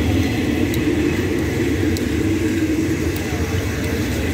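Passenger train carriages rolling past at close range: a steady, loud rumble of wheels on the rails.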